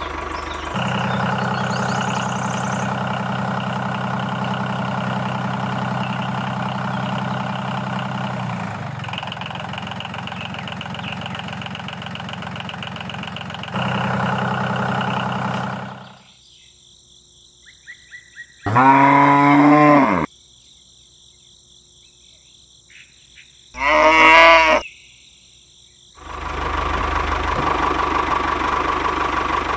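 A miniature toy tractor's small motor runs with a steady hum, which cuts off suddenly about halfway through. A cow then moos twice a few seconds apart, the first call the longer, and the motor hum starts again near the end.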